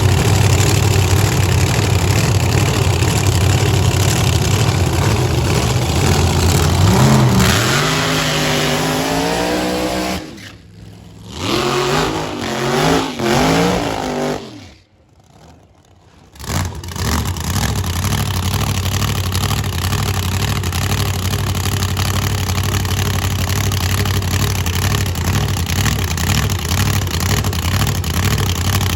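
Drag racing funny car's V8 engine running loud: steady at first, then revving up in rising pitch, dropping off and revving again unevenly, then after a short break running steadily.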